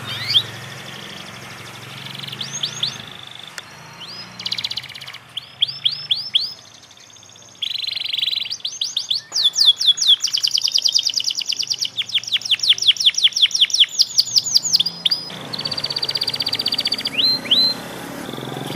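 Panda canary (a pied domestic canary) learning its song: runs of quick down-sweeping whistled notes, a long fast trill of them in the middle, and buzzy rolls about eight and sixteen seconds in.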